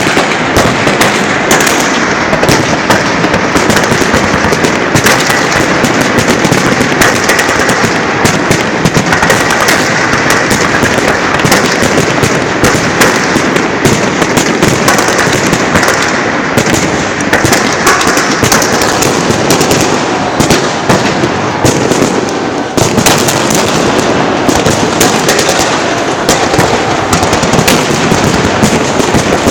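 Salute fireworks launchers firing a dense, continuous barrage: rapid overlapping launches, bursts and crackle with no break, easing for a moment about three-quarters of the way through.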